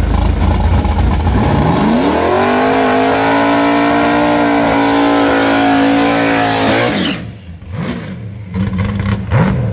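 Fox-body Mustang drag car's engine rumbling, then revving up about two seconds in and held at a steady high rpm through a burnout, before it is cut off sharply about seven seconds in.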